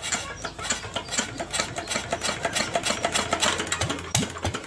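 Rapid, uneven metallic clicking and rattling from mechanical work on a diesel engine, thinning out near the end.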